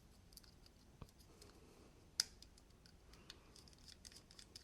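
Faint, irregular light clicks and ticks of a precision screwdriver spinning small body screws out of a folding knife's scale, with one sharper tick about two seconds in.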